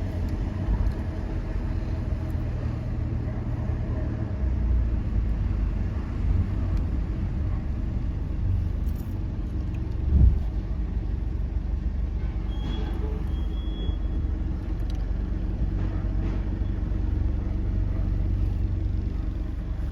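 A car driving, with a steady low engine and road rumble. There is one short thump about ten seconds in.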